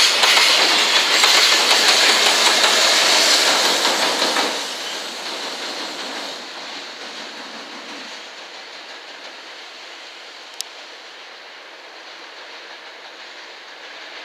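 Container freight train running past close by, its last wagons and rear-end EF210-300 electric banker locomotive going by; the noise drops sharply about four and a half seconds in and then fades steadily as the train draws away. A single short click sounds about ten seconds in.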